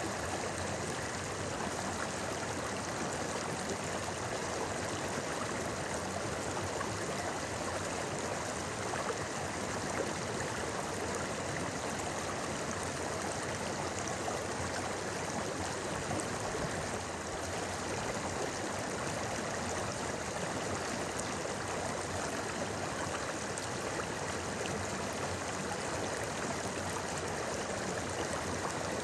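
River water flowing and babbling over stones in a steady, even rush.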